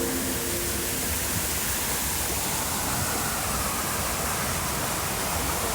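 Steady outdoor rushing noise with a low rumble underneath, unchanging throughout.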